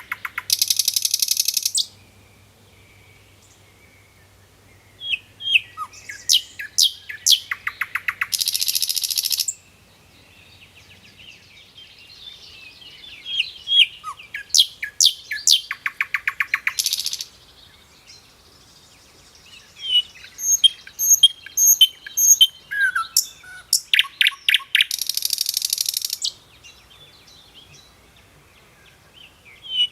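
Songbird singing in repeated phrases: runs of sharp chirps that end in a fast buzzy trill, about four times, with pauses of a couple of seconds between.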